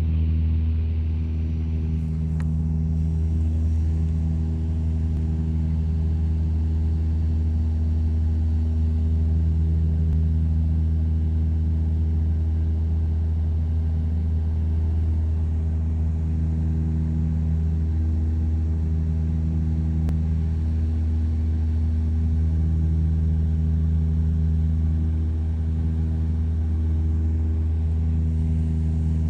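Cabin drone of a de Havilland Canada DHC-8-300's two turboprop engines and propellers in flight, heard through the cabin wall: a steady, deep, loud hum with several tones above it that slowly swell and fade every few seconds as the two propellers beat against each other.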